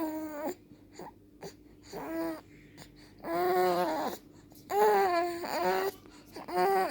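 Three-month-old baby making strange, short whiny vocal sounds: about six separate bursts with pauses between them, each bending in pitch.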